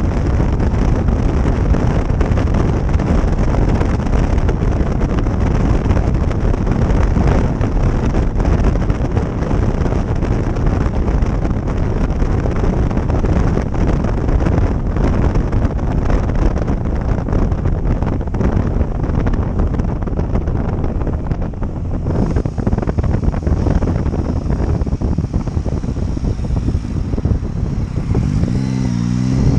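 Motorcycle on the move, its engine mostly buried under heavy wind buffeting on the microphone; near the end the engine note comes through, rising and falling as the revs change.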